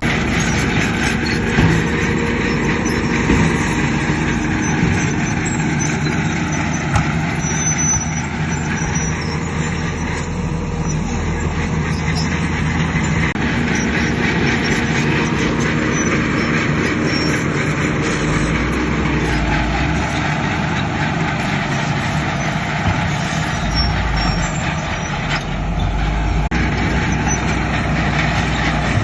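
Heavy diesel construction machinery running: the engines of a bulldozer and dump trucks working steadily, the engine note shifting as they take load.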